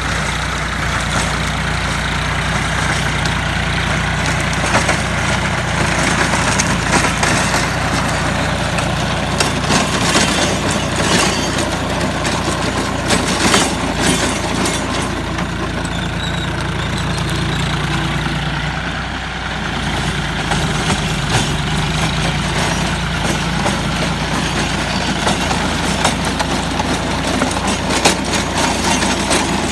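Tractor engine running steadily while driving a rotary tiller, with scattered sharp knocks and rattles, most of them around the middle, and a brief easing of the level about two-thirds of the way through.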